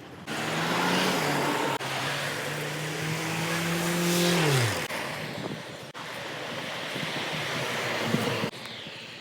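A motor vehicle passing close by: engine and tyre noise with a steady hum that drops sharply in pitch as it goes past, about halfway through.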